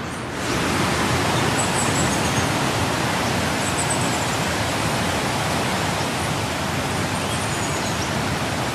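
Steady rush of flowing water that grows louder about half a second in, with a few faint, high bird chirps over it.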